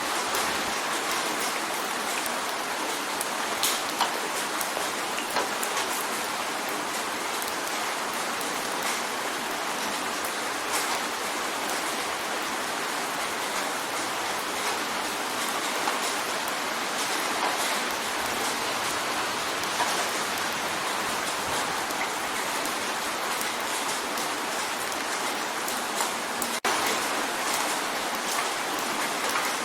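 Steady rain drumming on a window pane: an even hiss of rainfall with many small, sharp drop ticks scattered through it.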